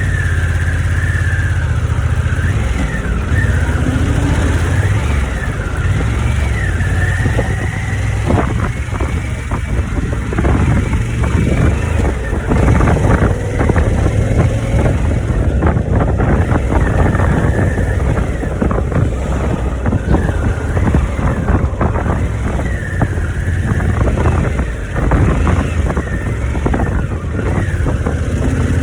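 Harley-Davidson motorcycle's V-twin engine running steadily under way, heard from the rider's position.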